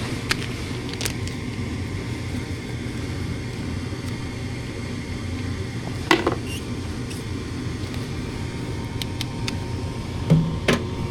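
Gas furnace motor running with a steady low hum, with a few short clicks and knocks, including a louder pair near the end.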